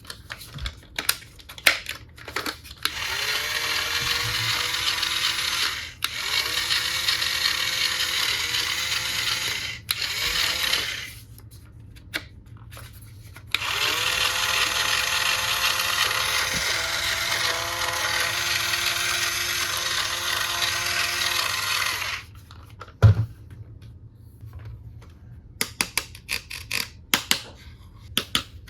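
Small electric motor of a battery-powered plastic toy tool running in two long runs, with a steady whine whose pitch dips briefly now and then, a short stop between them. Plastic clicks and taps come before and after.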